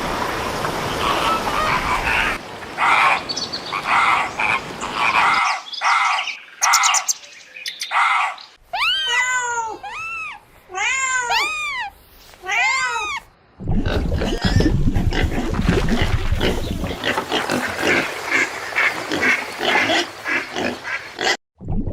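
A run of different animal calls: rough, pulsing calls, then about four seconds of repeated high calls that rise and fall in pitch, then more rough, pulsing calls.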